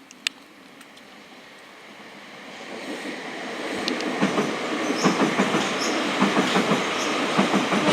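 A train approaching and crossing the rail bridge overhead. Its rumble builds steadily over the first few seconds, and then the wheels start clattering over the rail joints in a quick, uneven run of knocks.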